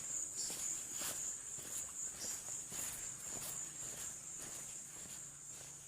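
Insects chirring steadily in one high-pitched tone, with scattered light clicks over it.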